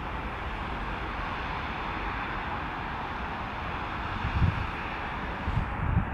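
Steady jet engine noise from an Airbus A320neo with Pratt & Whitney geared turbofans, with gusts of wind buffeting the microphone a few times in the second half.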